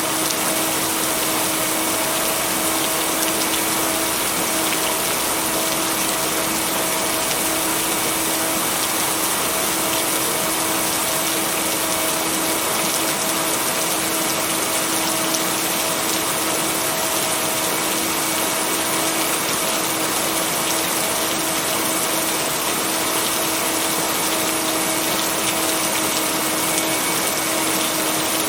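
Steady heavy rain, an even hiss with no let-up, with a steady hum-like tone held underneath throughout, as blended in for binaural beats.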